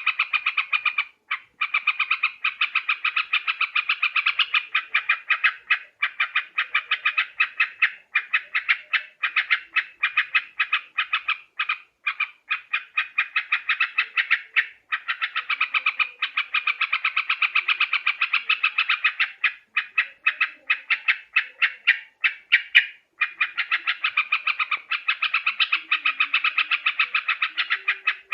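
Yellow-vented bulbul (trucuk) calls: long runs of rapid, bright chattering notes, several a second, broken by a few brief pauses.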